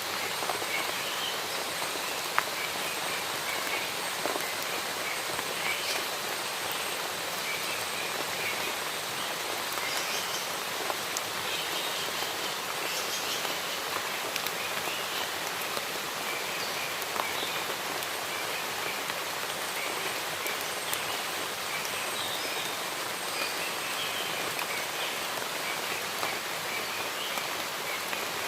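Steady rain falling, with the odd sharper drop ticking, and scattered small chirps of birds through it.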